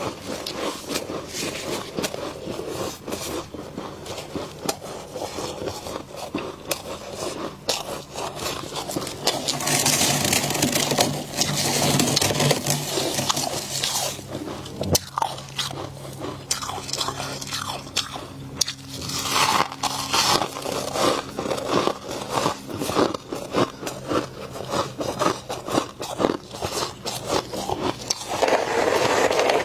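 Freezer frost being bitten and chewed: a dense run of crisp crunches, with louder stretches of crunching now and then.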